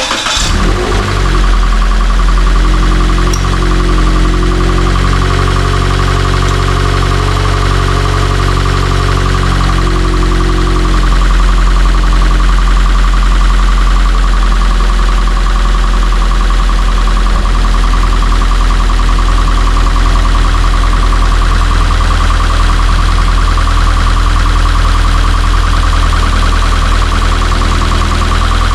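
Toyota 86's 2.0-litre flat-four engine catching and then idling with the air conditioning switched on, while the system is being charged with refrigerant. A steady whine runs over it, and the idle note shifts twice, about a third and about three fifths of the way in.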